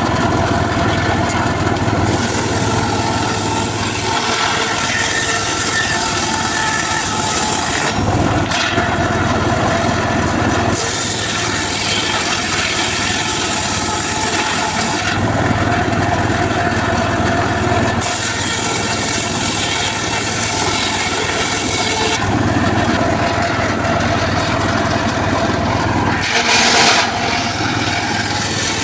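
Homemade engine-driven circular saw running steadily, cutting mahogany wood in repeated passes: each cut adds a rasping hiss over the engine for a few seconds, then drops back to the engine running free, with a short louder cut near the end.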